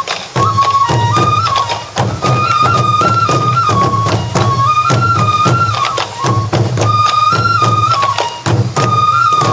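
Sansa Odori festival music: a bamboo flute plays a short stepping melody that repeats every two to three seconds over a dense, steady beat of taiko drums.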